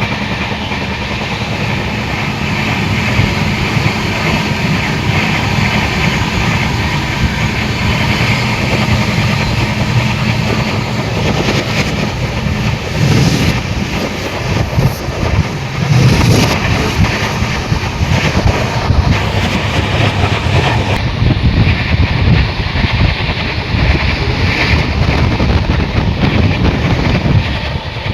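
A train running on railway track: a loud, steady rumbling clatter, with heavier irregular knocks from about halfway through.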